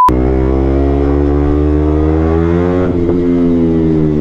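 A short beep at the very start, then the single-cylinder engine of a KTM Duke 125 with an Akrapovic exhaust pulling up in revs for about three seconds, easing off and slowly falling in pitch afterwards.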